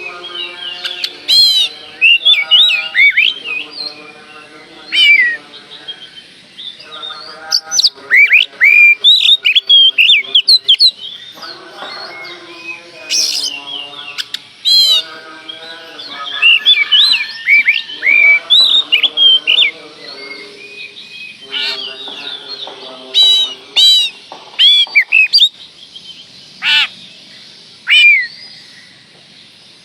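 Oriental magpie-robin (kacer) singing a loud, varied song of quick sweeping whistles, mixed with lower, harsher buzzy notes, in phrases with short pauses between them.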